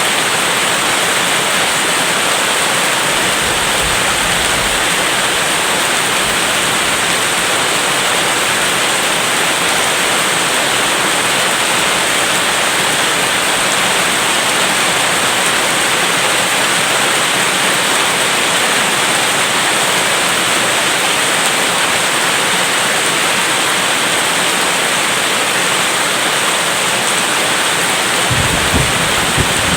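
Heavy rain falling steadily, an even hiss. A brief low rumble comes near the end.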